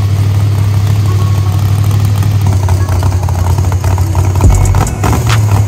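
High-performance car engine idling with a steady low rumble. Near the end the rumble deepens and a series of sharp cracks begins.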